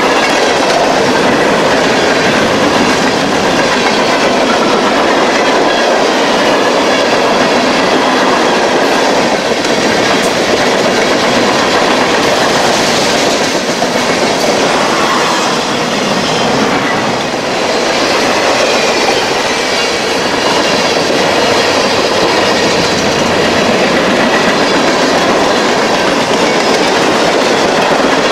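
A long freight train's cars rolling past close by: a loud, steady noise of steel wheels on the rails.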